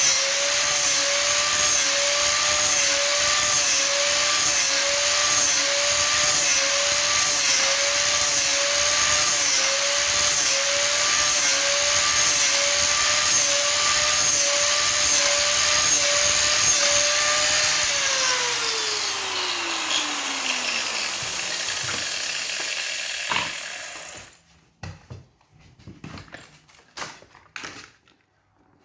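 An electric power tool's motor running steadily with a slight regular wobble in pitch. It is switched off about 18 seconds in and winds down over several seconds, followed by a few light knocks and clatters.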